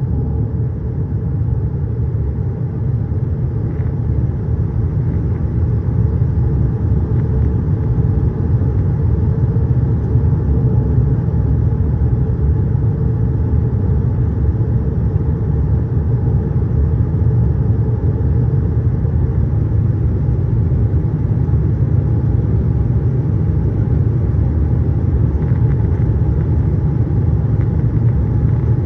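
Steady low rumble of a Boeing 787-8 in flight heard from inside the aircraft: engine and airflow noise with faint steady hums over it, growing slightly louder about six seconds in.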